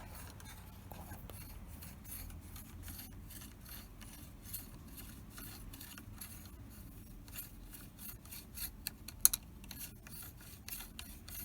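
Rapid, irregular scraping and clicking of small metal parts being worked by hand, with one sharper click about nine seconds in.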